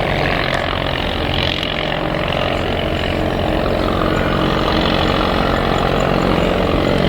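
Piston engine of a vintage propeller aircraft running steadily.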